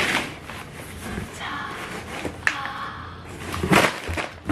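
Food packages being handled: rustling of packaging with a few knocks and a sharp click, loudest near the start and again near the end.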